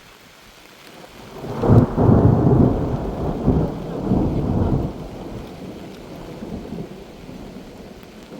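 A roll of thunder: a deep rumble that swells about a second in, surges a few times for about three seconds, then trails away slowly.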